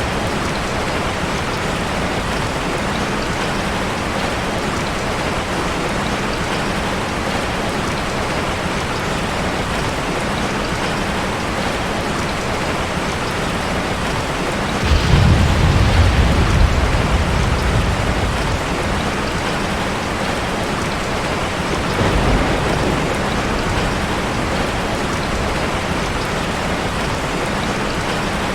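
Heavy rain hitting a car, a steady dense patter. About halfway through a low rumble of thunder swells for a few seconds, and a fainter rumble comes later.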